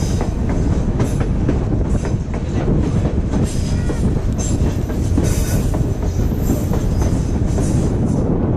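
Passenger train running along the track: a steady rumble with irregular clacks of the wheels over the rails, and a thin, high wheel squeal about halfway through.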